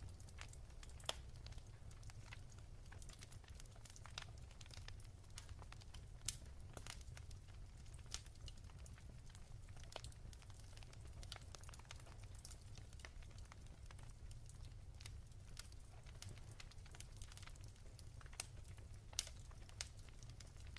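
Wood fire crackling softly: irregular sharp pops and snaps over a low steady rumble, with a few louder pops standing out.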